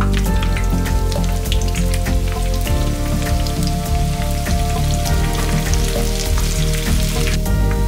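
Battered chicken pieces deep-frying in hot oil in a pan: a dense, crackling sizzle over background music. The sizzle cuts off suddenly near the end.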